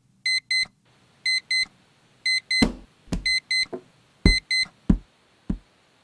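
Digital alarm clock beeping in pairs of short, high electronic beeps about once a second. From about halfway a run of six dull thumps comes roughly every half second, and the beeping stops near the end.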